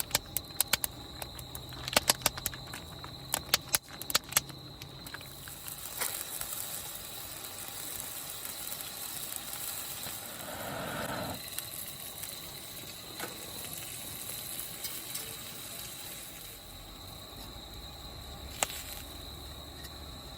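Crickets chirping steadily. A run of sharp clicks and knocks comes in the first four seconds, with a single knock near the end.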